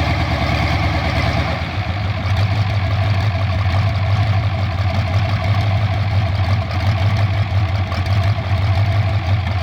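Cummins 504 marine diesel engine running steadily. About two seconds in its sound changes, the low drone becoming stronger and steadier.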